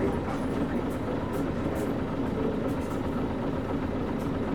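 Interior running sound of a KC-UA460LSN one-step city bus with a PG6 diesel engine, a steady engine drone with faint scattered ticks and creaks from the cabin.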